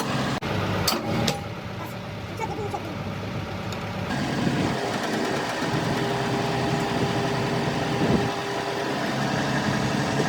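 An engine running steadily at idle, with a couple of sharp clicks about a second in. A steady whine joins it for a few seconds in the middle.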